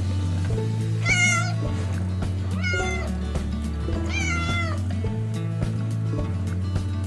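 Domestic cat meowing three times, about a second and a half apart, each meow a short call that falls in pitch at its end, over background music.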